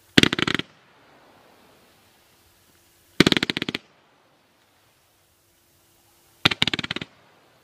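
World Class Fireworks 'Frontlines' firework cake firing three volleys, each a rapid string of sharp bangs lasting about half a second. The volleys come about three seconds apart: near the start, a little after three seconds in, and near the end.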